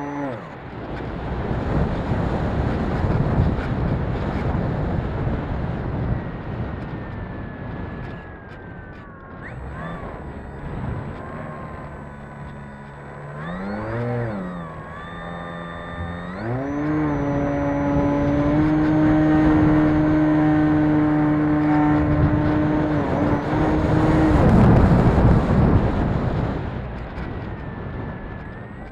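Wind buffeting the microphone, with the whine of a radio-controlled model airplane's electric motor and propeller. The pitch swoops up and down about halfway through, then holds steady for several seconds before fading under the wind.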